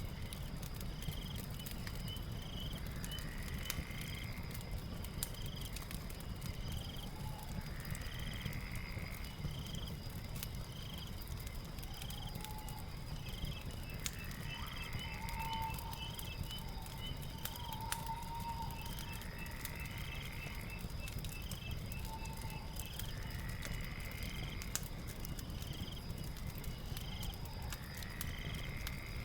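Night ambience with a crackling fire: scattered small pops and crackles over a low steady rumble, with insects chirping steadily and a call repeating every four to five seconds.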